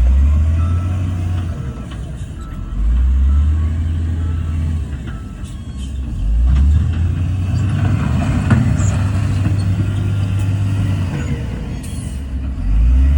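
Heavy diesel engine of earthmoving machinery running. Its low drone swells louder and eases off every few seconds, with a few short faint squeaks and clanks.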